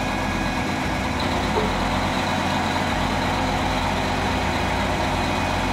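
Construction crane's engine running steadily, an even engine hum under constant mechanical noise, which cuts off suddenly at the end.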